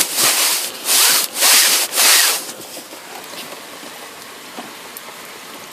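Steady rain hiss, with four loud rubbing or scraping bursts in the first two and a half seconds.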